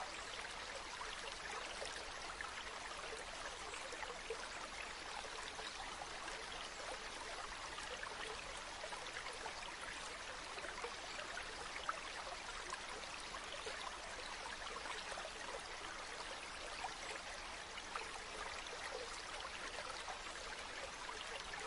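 A river flowing steadily, a constant rushing babble of water with small splashes flicking through it.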